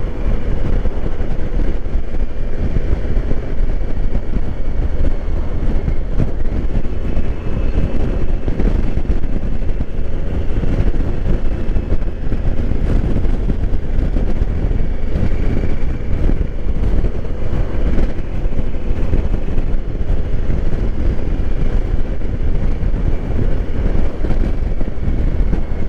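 A 2020 Honda Africa Twin motorcycle riding at speed, heard as a steady low rumble of wind and road noise with no letup.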